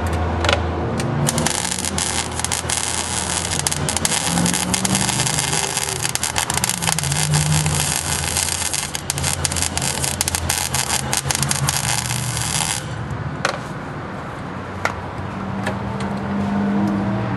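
MIG welder arc crackling and sizzling steadily while welding a sheet-steel patch panel into a pickup cab corner, for about eleven seconds, then cutting off suddenly, with a couple of short single crackles afterwards.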